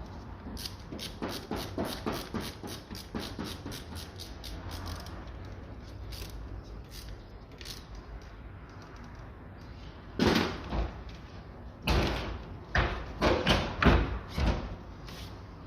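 Rapid run of light clicks for the first five seconds or so, then a series of heavier clunks and knocks near the end: hand work on metal parts and fittings in a car's engine bay during reassembly.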